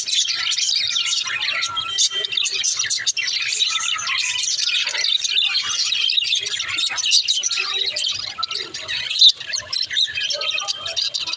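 Pet budgerigars chattering, a dense, unbroken stream of chirps, warbles and squawks.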